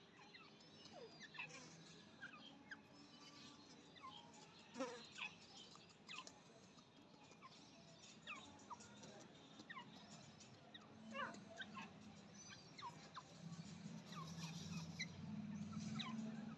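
Faint, short chirps from birds, scattered irregularly, each sliding down in pitch, with a low hum rising over the last few seconds.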